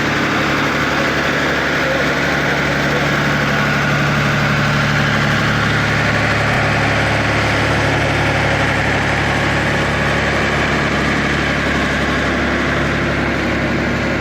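Eicher tractor's diesel engine running steadily at an even speed.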